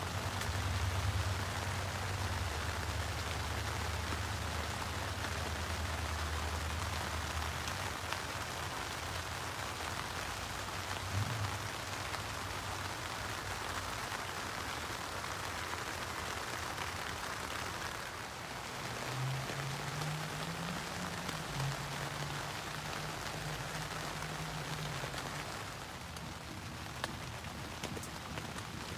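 Steady rain falling on the tent, with a low hum under it for the first several seconds and again briefly later on.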